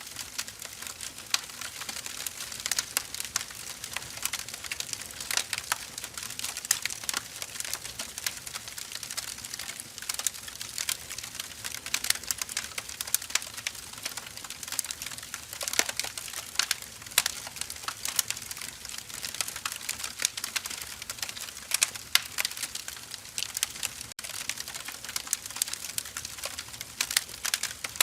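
Wood fire crackling: burning firewood gives many irregular sharp snaps and pops over a steady hiss.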